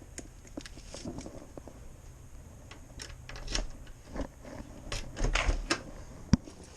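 Irregular clicks and knocks with no steady rhythm, bunching up about three seconds in and again about five seconds in, and one sharp knock near the end that is the loudest.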